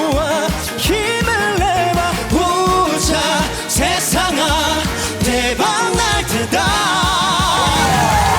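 A vocal group singing an upbeat Korean pop song, with held, wavering notes over a band backing with a steady beat.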